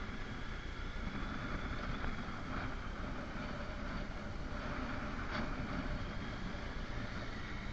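Motorcycle riding along at a steady pace, its engine running evenly under the rush of wind over the microphone.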